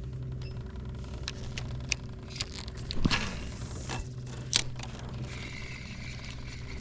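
Gear being handled and knocked about in a jon boat: scraping and rattling with several sharp clicks, and the loudest knock about three seconds in, over a steady low hum.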